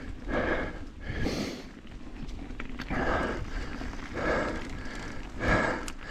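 A mountain biker breathing hard while pedalling, a loud breath about every second, over a low steady rumble from the ride.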